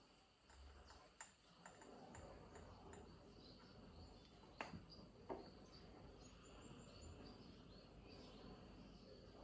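Near silence: faint outdoor background with high, steady chirping and a few soft clicks.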